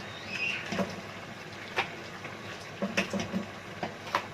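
A utensil knocks and clinks against a cooking pot several times as cooked crabs are lifted out of it, over a steady background hiss.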